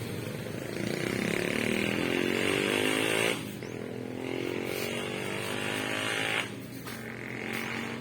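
Small 50cc motorcycle engine revving in throttle blips. Its pitch climbs over about two seconds and drops off sharply just past three seconds, climbs again and drops back sharply past six seconds, then settles at a lower steady speed.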